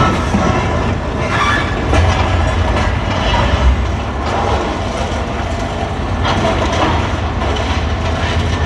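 Heavy demolition machinery working: a steady low diesel rumble, with irregular bouts of clattering and grinding from debris being broken up.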